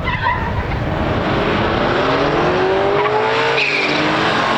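A race car's engine accelerating hard, its pitch climbing from about two seconds in, then dropping sharply for an upshift and climbing again near the end.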